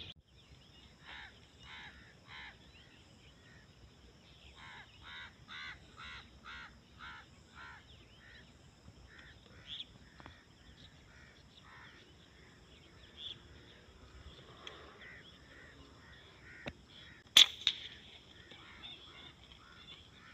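Birds calling in quick series of short calls, two or three a second, over a faint steady high tone. A single sharp crack comes near the end.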